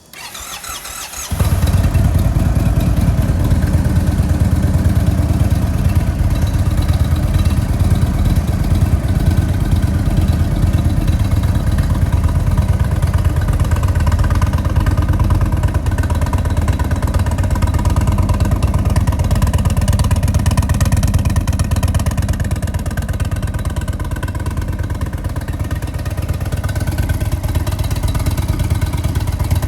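2017 Indian Springfield's air-cooled Thunder Stroke 111 V-twin, fitted with an Indian performance exhaust and high-flow air intake, whirring on the starter and catching about a second in, then idling steadily.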